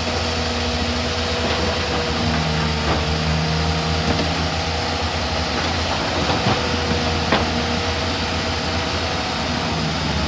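Heavy diesel earthmoving machine running steadily under way, with a few sharp clanks scattered through.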